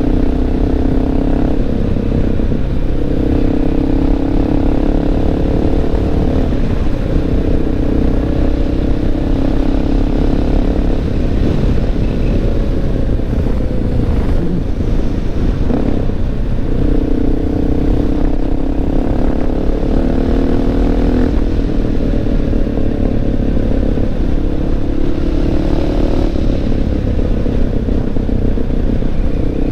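Honda XR650L's single-cylinder four-stroke engine running under way, its note rising and falling several times with throttle and shifting, over a steady low rumble of wind on the microphone.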